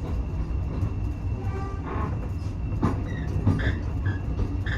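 Railway coach running along the track: a steady low rumble with scattered knocks and rattles from the wheels and carriage.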